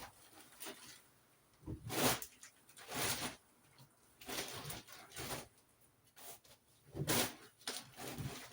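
Irregular rustling and knocking of household items being handled, in short bursts.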